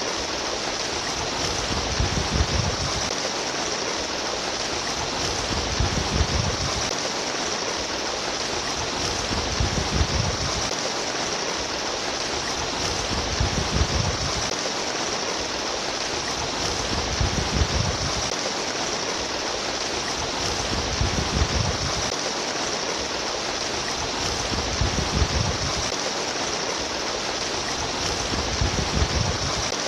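Flowing water babbling and splashing steadily, with a low rumbling swell about every four seconds.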